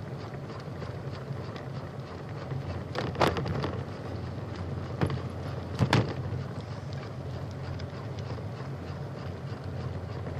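Wind buffeting the microphone over the steady rolling noise of a bicycle riding along a trail, with two sharp knocks about three and six seconds in.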